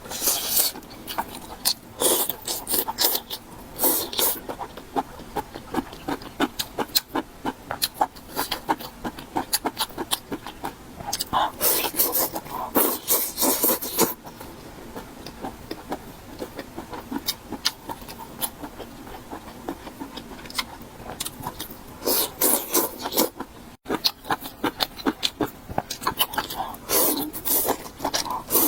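Close-miked eating sounds: crisp crunching bites come in louder bursts every few seconds, with steady chewing and small mouth clicks between them.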